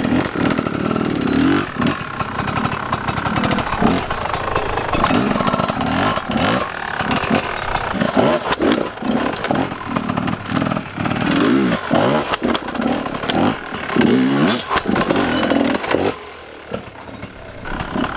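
Dirt bike engine revving up and down over and over as it is ridden, the throttle opened and shut repeatedly; it drops away near the end.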